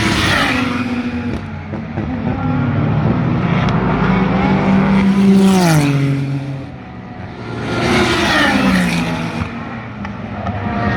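Super GT race cars passing close by at speed one after another, engines at high revs, the pitch dropping sharply as each goes by. There are three loud passes, near the start, mid-way and about three-quarters through, with another car approaching at the end.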